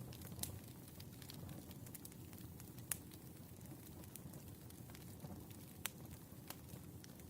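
Burning firewood crackling: a steady low rumble of the fire with a few sharp pops, the loudest about three seconds in.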